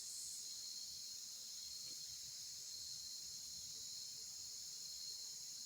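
Steady high-pitched chorus of insects, like crickets, with a faint low background hum beneath it.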